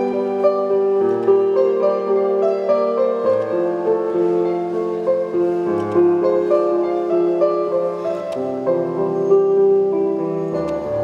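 Piano music: a slow melody of held notes changing every half second or so.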